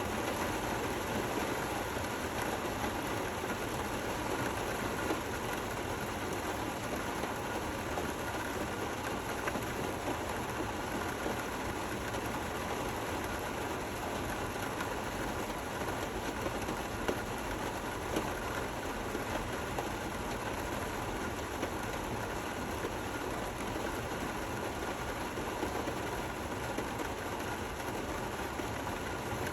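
Steady rain falling: an even hiss with small, scattered drop hits that stand out now and then.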